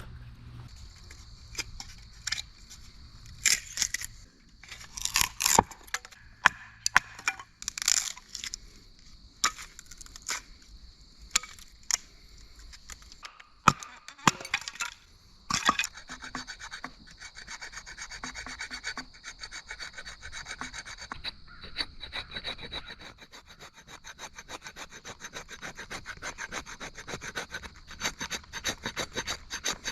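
Firewood being handled: scattered knocks and cracks of wood, then from about halfway through a hand saw cutting a log in steady, even back-and-forth strokes.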